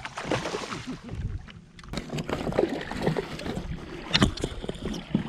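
Water splashing and sloshing at the side of a kayak as a hooked largemouth bass is fought in, with a sharp knock about four seconds in.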